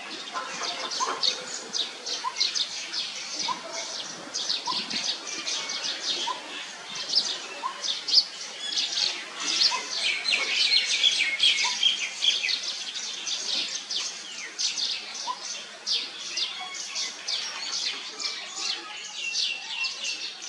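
Many small birds chirping in quick, dense succession, with a lower short note repeating about once a second through the first half.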